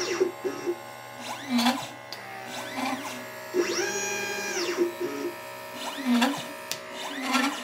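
LitePlacer pick-and-place machine's stepper motors whining as the head moves, each move rising in pitch, holding, then falling. The longest move comes about halfway through. Short clicks sound between the moves, over a steady low hum.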